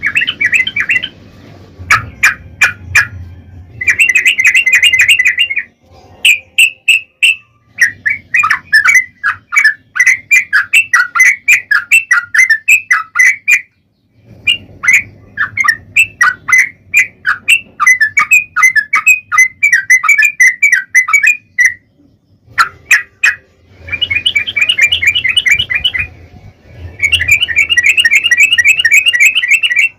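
Yellow-vented bulbul (trucukan) singing in long runs of rapid chattering notes, the longest lasting several seconds, broken by short pauses and single sharp calls. This is the energetic 'gacor' song used as a lure to make other bulbuls answer.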